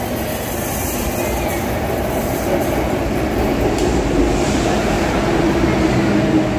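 MTR M-Train electric multiple unit running: a steady rail rumble, with a motor hum that grows stronger about halfway through.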